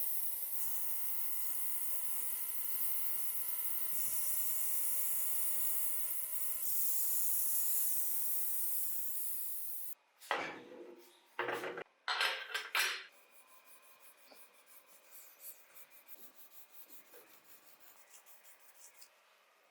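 A steady spraying hiss with a hum under it, which cuts off about ten seconds in. Three loud rasping strokes of abrasive rubbing on a small diecast part follow, then a run of faint, quick scratching strokes.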